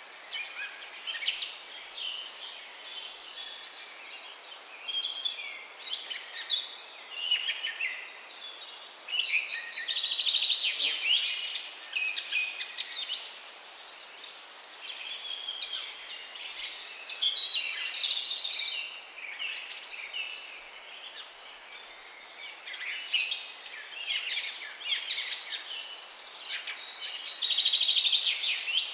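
Several songbirds singing and chirping at once, a dense overlapping chorus of quick high chirps and trills that swells and eases, over a faint steady hiss.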